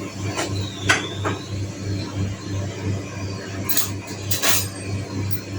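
Kitchen utensils knocking and clinking a few times, in two small clusters near the start and about four seconds in, over a steady low hum.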